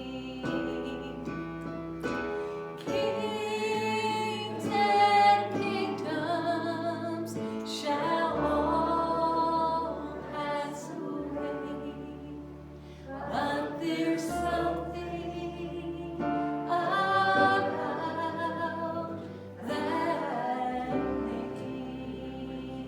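Voices singing a worship song with long held notes over instrumental accompaniment.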